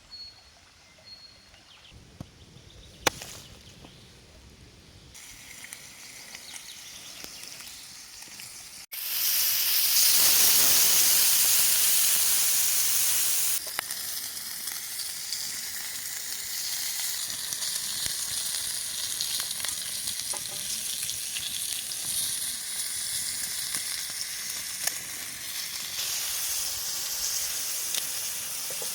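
Food sizzling over a campfire. For the first few seconds it is quiet, with a few sharp crackles. About nine seconds in the sizzling turns suddenly loud for several seconds, then settles to a steady sizzle.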